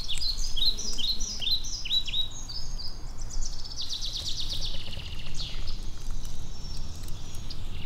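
Wild birds singing: a string of quick, high, downward-sweeping chirps for the first few seconds, then a fast high trill, over a low steady rumble.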